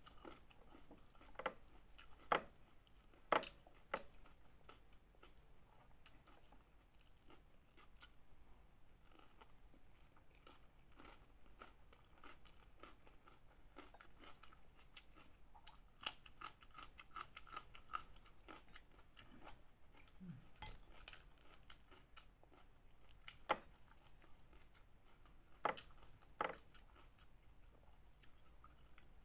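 Close mouth sounds of a person eating, picked up by a clip-on microphone: irregular crisp crunches and clicks as raw young ginger and long beans are bitten and chewed, with a few louder crunches near the start, a cluster in the middle and more near the end.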